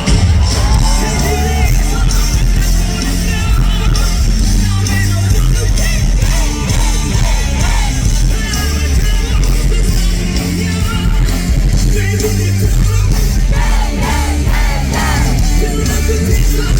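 Live rock band playing loud and continuously, with a male lead vocalist singing and yelling over heavy bass and drums.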